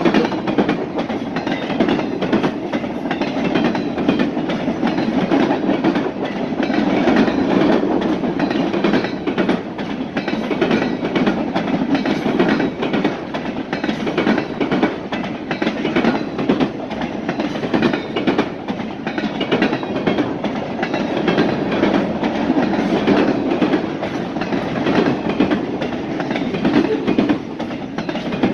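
Freight train cars rolling past steadily, wheels clicking over rail joints in a continuous clatter over the rumble of the cars.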